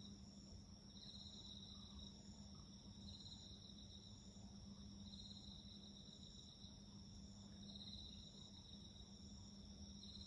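Crickets and other insects singing faintly: one steady high trill, with a second insect repeating a short phrase about every two seconds.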